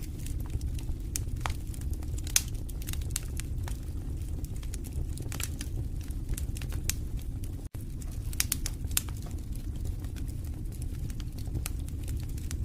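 Wood fire burning in a fireplace: a steady low rumble of flames with frequent sharp crackles and pops. The sound drops out for an instant about two-thirds of the way through.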